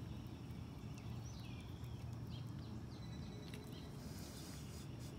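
Faint outdoor background with a low steady rumble and a few short, high, downward chirps from distant birds, plus one faint tick about three and a half seconds in.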